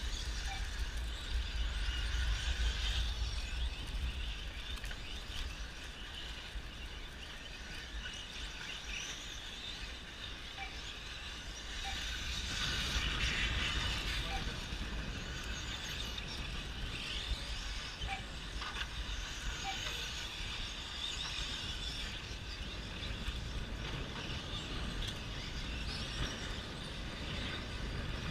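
Electric RC short-course trucks running on a dirt track, a mix of high motor whine and tyre noise that swells for a few seconds about halfway through, over a steady low rumble of wind on the microphone.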